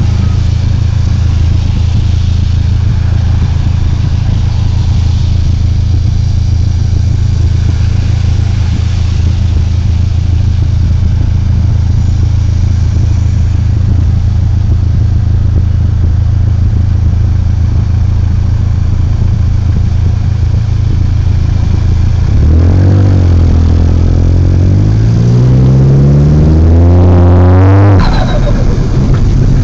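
Car engine idling steadily, then revved: its pitch climbs from about 22 seconds in, is held, and falls back to idle sharply near the end. This is the engine-bay noise the owner likens to a flock of pigeons, or a ghost.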